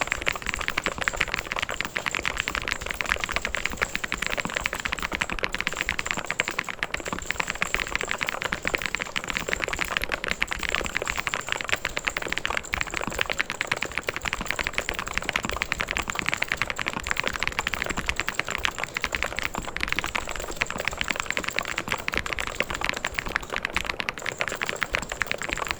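Fast, continuous typing on a mechanical keyboard: a steady stream of key clicks and clacks with no pauses.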